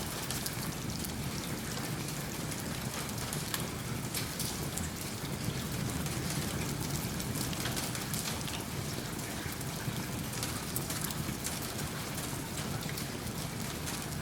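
Steady rain falling, with many small drop ticks, and a faint crackle that may be a wood fire in a fireplace.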